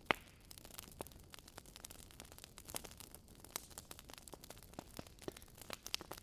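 Wood fire in a fireplace crackling, with irregular sharp pops over a faint hiss; the loudest pop comes just after the start.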